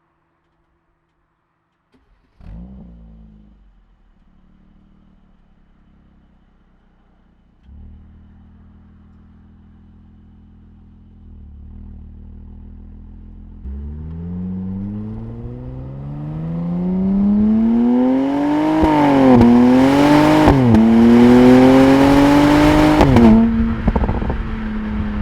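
2017 Mercedes-AMG SLC 43's twin-turbo V6 starting up with a short flare of revs and settling to idle. About halfway through it accelerates hard, the engine note rising steadily and dipping at two quick upshifts. Near the end it lifts off suddenly with crackles and pops from the exhaust.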